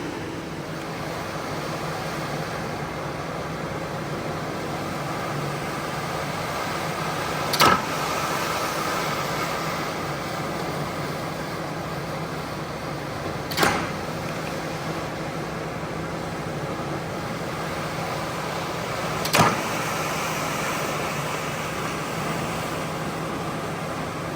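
A machine motor running steadily, with three sharp clacks about six seconds apart.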